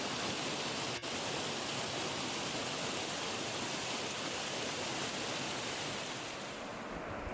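Steady rush of falling water from a waterfall, a dense hiss. There is a brief dropout about a second in, and the higher part of the rush falls away near the end.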